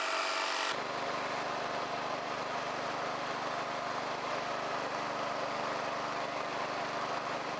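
Wheel Horse 257H garden tractor's Kawasaki engine running steadily as the tractor is driven along; the sound cuts in abruptly just under a second in.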